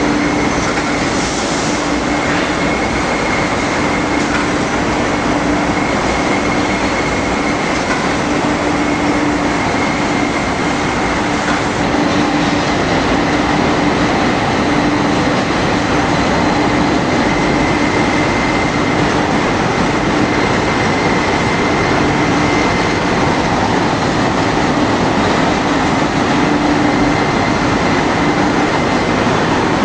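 Steel rebar rolling mill machinery running: a loud, steady industrial din with a constant low hum and a fainter high whine.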